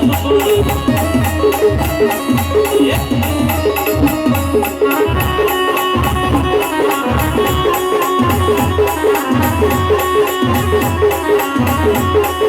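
Village band playing an Ahirani folk song live: a melody over a heavy, steady drum beat, with rattling percussion throughout.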